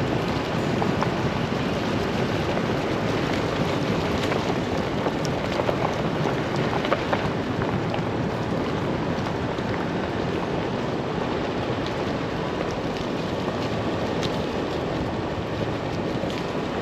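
Chevy Colorado ZR2 Bison pickup driving, a steady road and tyre rumble with scattered light ticks.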